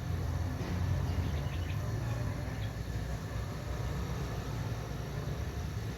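Non-inverter refrigerator compressor running with a steady low hum. It is pumping and circulating the refrigerant normally, its discharge line heating up.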